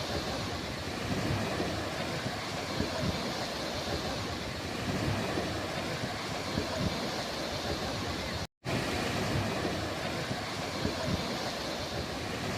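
Steady wash of sea surf with wind gusting on the microphone. The sound drops out completely for a split second about eight and a half seconds in.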